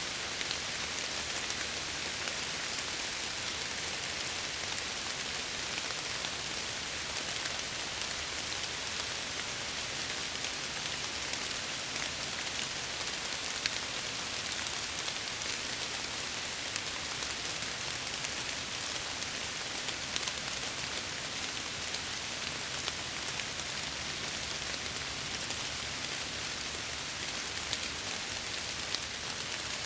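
Steady rain pattering on a window, an even hiss with many small drop ticks scattered through it.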